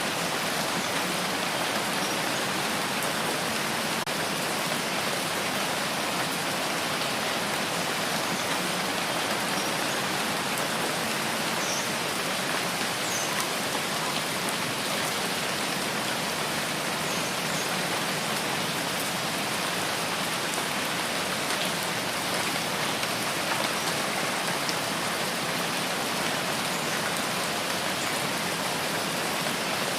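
Steady rain falling, an even hiss of many drops that holds without breaks or changes.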